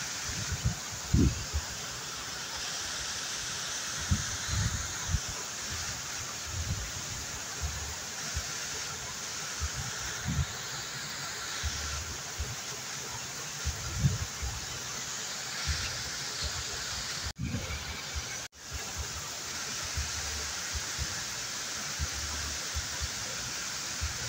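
Waterfall rushing steadily, with frequent low thuds mixed in. The sound cuts out briefly twice about 17 seconds in.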